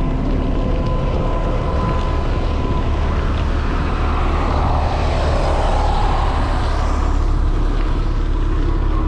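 City street traffic heard from a moving bicycle, with a steady low rumble of wind on the microphone. A vehicle swells past about four to seven seconds in, its pitch dipping and then rising.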